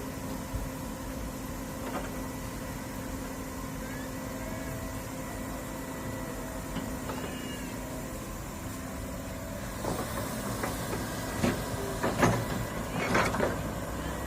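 Hydraulic excavator engine running steadily with a constant whine, with a few faint high squeals in the first half. From about two-thirds of the way through comes a series of irregular clunks and thuds, the loudest a little past the middle of that run.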